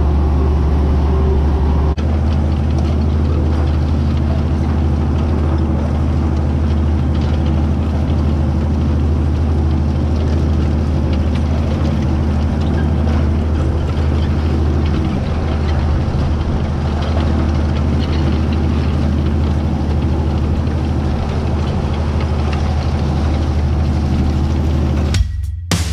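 White 2-150 tractor's Caterpillar 3208 V8 diesel engine running steadily while pulling a disc through a field. Near the end it cuts off suddenly and drum-led music starts.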